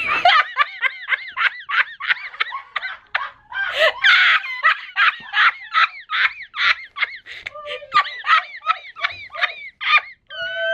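A woman laughing hard in a long run of rapid, high-pitched giggles, three to four a second, ending in a held, drawn-out squeal near the end.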